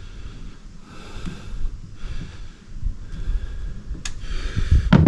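A man breathing heavily, a string of noisy breaths each about a second long, with a sharp click about four seconds in and a knock near the end.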